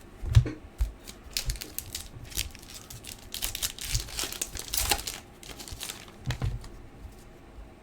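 A hockey card pack being torn open, its wrapper crinkling in a dense stretch near the middle, among sharp clicks of card handling and a few dull knocks on the table.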